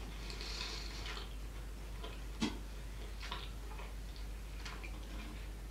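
Faint chewing and small mouth clicks from someone eating a mouthful of food, with one sharper click about two and a half seconds in.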